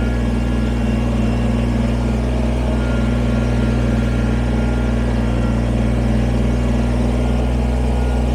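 Kubota BX23S sub-compact tractor's three-cylinder diesel engine running at a steady speed as the tractor drives over loose dirt, packing it down.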